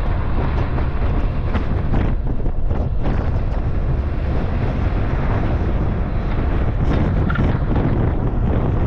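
Wind buffeting the microphone: a loud, steady noise that is strongest at the low end.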